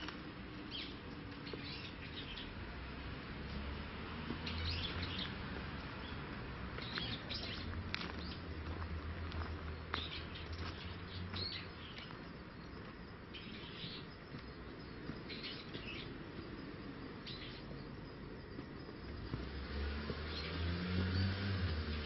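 Small birds chirping in short, scattered calls, over a steady low rumble that grows louder near the end.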